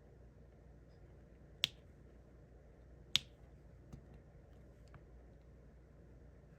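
Small sharp plastic clicks from diamond painting work, the drill pen tapping and pressing resin drills onto the canvas. Two distinct clicks about a second and a half apart, followed by a few fainter ticks.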